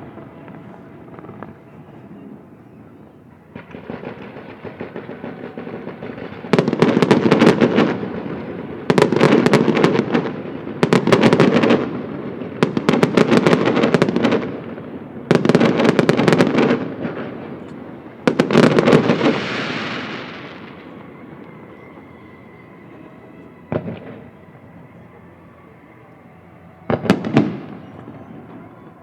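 Aerial fireworks shells bursting in quick succession: a run of loud booms and bangs, each with a ringing tail, through the first two-thirds, then a lull and one more loud bang near the end.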